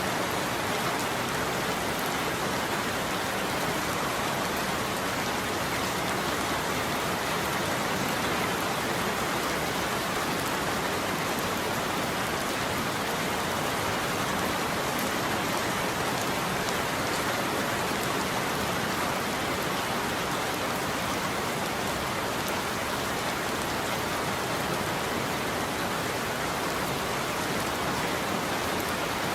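Steady heavy rain falling on surfaces, an even hiss of many drops with no thunder heard.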